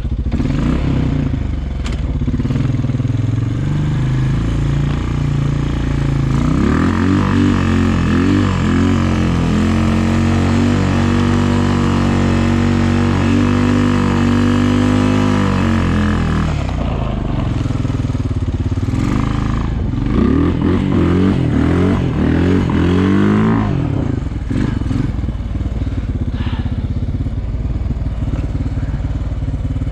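Engine of a snow-plowing vehicle running continuously, revving up and easing off in two long stretches as it works, with the pitch climbing and falling several times.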